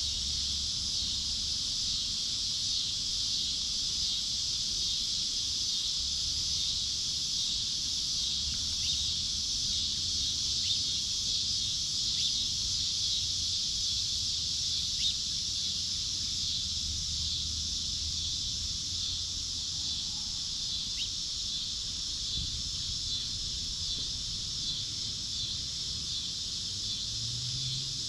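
Steady, high-pitched insect chorus droning without a break, with a few faint short clicks here and there.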